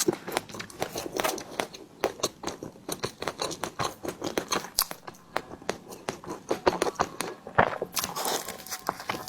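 Close-miked eating sounds from a tiger skin dessert: chewing with many quick, irregular mouth clicks and smacks.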